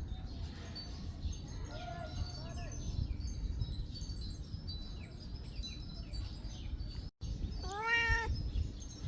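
Domestic cat meowing: a faint meow about two seconds in and a louder, clear meow near the end, after a brief dropout in the sound, over a steady low rumble.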